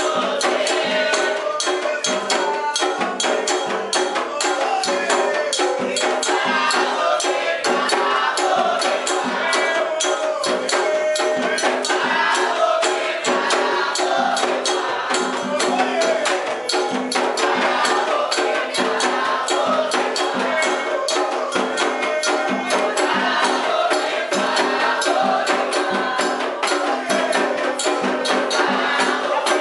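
Candomblé ritual music: hand percussion with shakers and a sharp, wood-block-like beat playing a dense, fast, steady rhythm, with voices singing over it.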